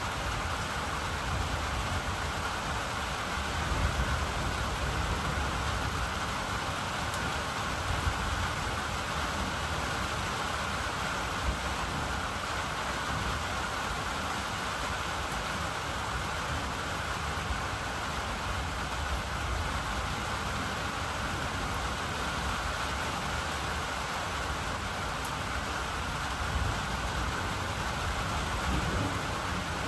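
Steady rain falling during a thunderstorm, an even hiss with a few brief louder taps.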